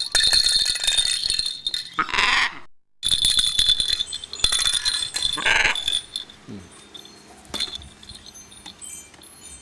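A trained pet bird calling in short cries, about two seconds in and again midway, over a steady high ringing tone.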